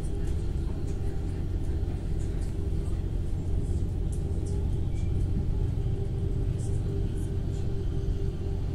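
Steady rumble of a moving passenger train heard from inside the carriage, with a steady hum and scattered faint light ticks.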